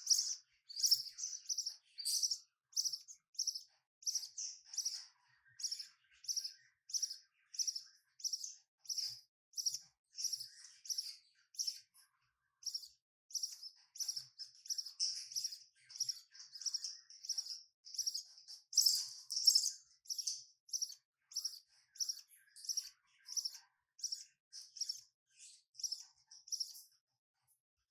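Budgerigar chicks cheeping: short, high-pitched calls repeated in a steady rhythm, a little under two a second.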